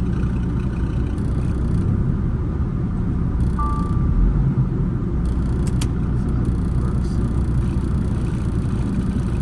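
Semi truck's diesel engine running with a steady, heavy low rumble while the stuck truck tries to pull out of mud and snow. A short high tone sounds once, about three and a half seconds in.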